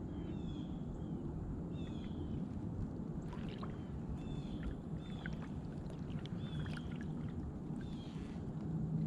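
A bird repeating short, high, falling chirps about once or twice a second over a steady low rushing noise, with a few sharp clicks about a third of the way in.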